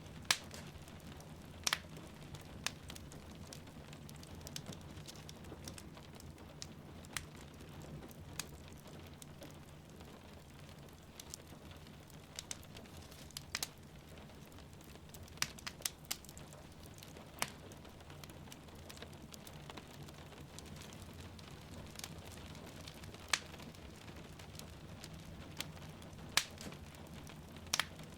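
Wood fire crackling in a fireplace, with irregular sharp pops every second or two, over a steady hiss of falling rain.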